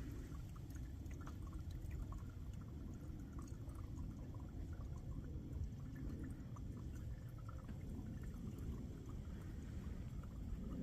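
Rain dripping and pattering in small scattered drops over a low steady rumble.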